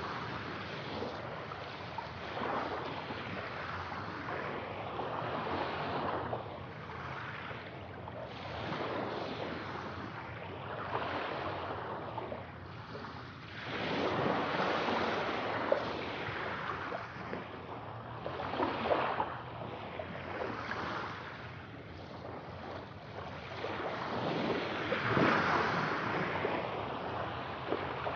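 Sea waves breaking and washing ashore, the surf swelling and easing every few seconds, with its strongest surges about halfway through and near the end.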